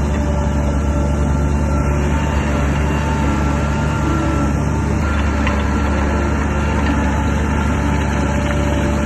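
Shantui DH17 bulldozer's diesel engine running steadily with a deep hum.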